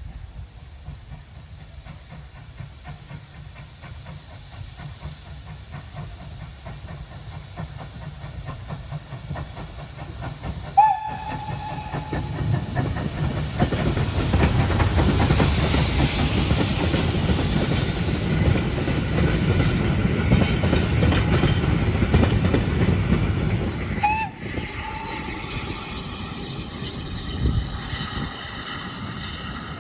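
Steam locomotive and its train approaching and passing, the rumble and rattle of the train growing loud with a burst of steam hiss at its height. The whistle gives a short blast about a third of the way in and another shortly after the train is at its loudest.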